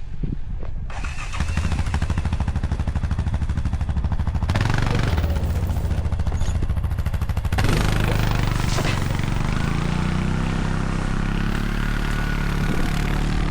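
ATV engine running steadily under load, pulling a 1,000-lb round hay bale through deep snow.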